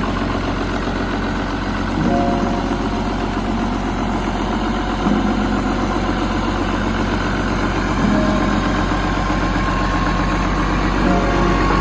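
Isuzu 6BG1 inline six-cylinder diesel engine running at idle, a steady even diesel clatter with small shifts in tone about every three seconds.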